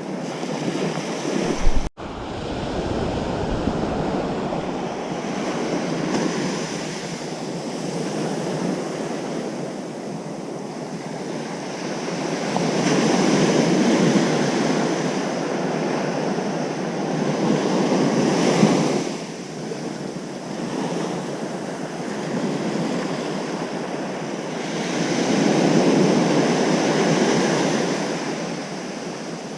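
Ocean surf breaking on a beach, a steady rush that swells in slow surges as each wave comes in, three of them louder. About two seconds in there is a short loud bump, cut off by a split-second dropout.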